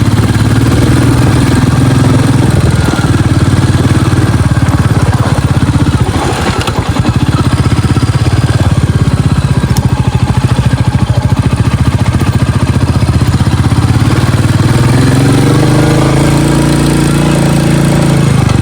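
Royal Enfield Bullet motorcycle's single-cylinder engine running under way, steady, easing briefly about six seconds in, then rising in pitch near the end as the bike picks up speed.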